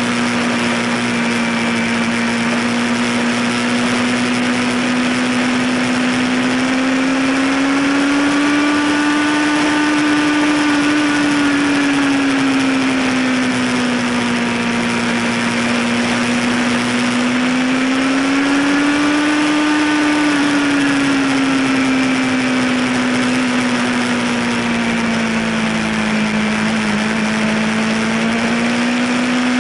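Yamaha YZF sport bike's inline-four engine running at steady high revs on the move, its pitch rising and falling slowly twice with the throttle, under a constant rush of wind noise.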